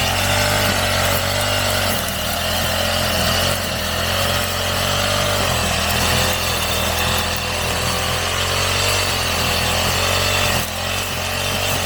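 Small petrol engine of a brush cutter running steadily while cutting grass, its pitch dipping and recovering slightly as the load changes, with a brief dip in level near the end.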